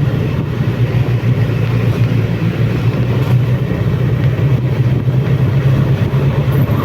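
Suzuki Bandit motorcycle's inline-four engine running steadily at an even pitch while riding, with wind noise over it.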